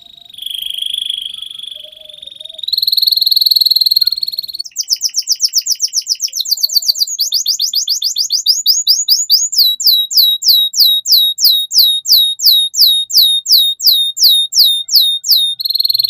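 Domestic canary singing. It opens with rolling trills held on one pitch, breaks into a fast run of repeated notes, then goes into a long series of downward-sweeping notes at about three a second, and ends on a held trill.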